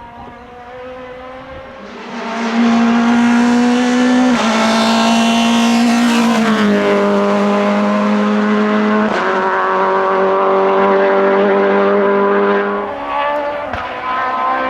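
Naturally aspirated Group F2000 rally car engine at high revs passing close. The pitch holds steady with a few sudden drops and a slide down as it goes by. It builds up over the first couple of seconds and fades near the end.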